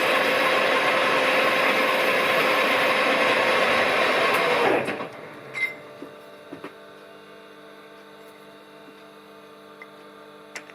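Smart & Brown model A lathe running while the brass spigot is worked, then switched off about five seconds in and spinning down, leaving a low steady hum with a few light clicks.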